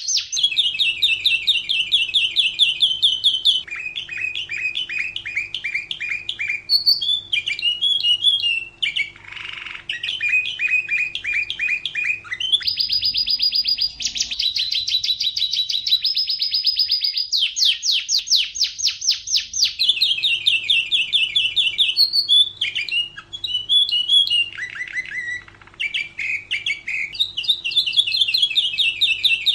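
Domestic canary singing a continuous song of rapid trills and rolls, switching to a new phrase every few seconds. A faint steady hum sits behind the song for much of it.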